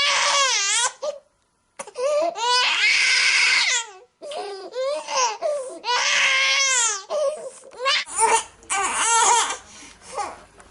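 Baby crying in long, loud wails with brief pauses for breath between them. From about eight seconds in, the cries turn shorter and choppier, with a faint low hum behind them.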